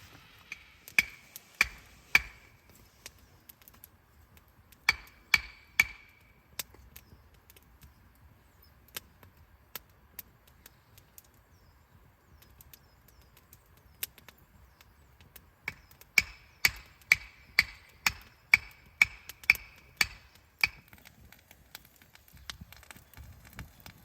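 Firewood being chopped or split with a blade: sharp strikes, each with a short ringing note. There are three strikes near the start, three more around five seconds in, then a run of about ten strikes at roughly two a second later on.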